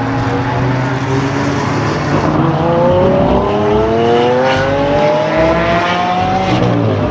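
Race car engine accelerating, its pitch climbing steadily over several seconds and falling away near the end.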